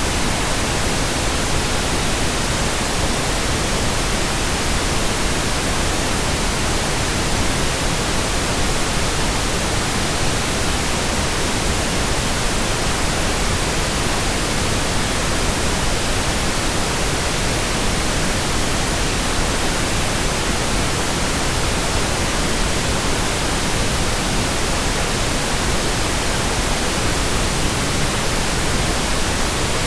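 Steady white noise: an even, unbroken hiss spread across all pitches, with no change in level.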